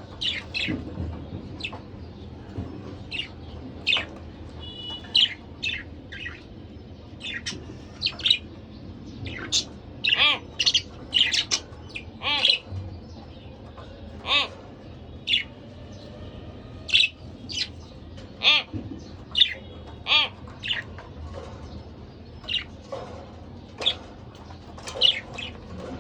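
Pair of budgerigars chirping and squawking in short, sharp calls, scattered irregularly with brief pauses between them.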